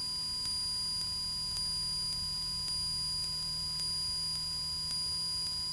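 Steady electronic tones, a high whine with a fainter mid tone and low hum, with faint clicks about once a second. This is electrical noise on the cockpit audio feed while no one talks, and the engine at takeoff power is not heard.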